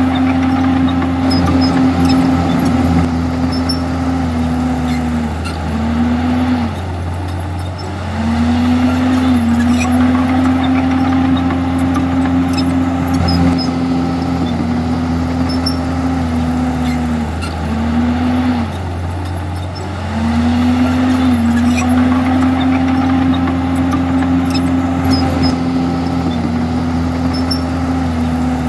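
Komatsu D51EX bulldozer's diesel engine running hard as it works. Its pitch holds steady for several seconds at a time, then dips briefly and recovers, three times.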